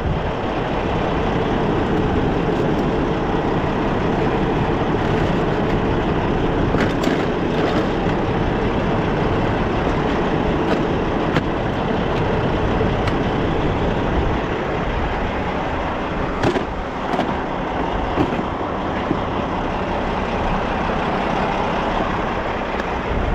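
Steady running of an idling diesel semi-truck, with a few faint clicks over it.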